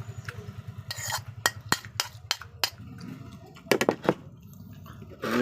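Spoon and fork clinking against a plate and bowl while eating, in several separate sharp clicks, over a steady low hum.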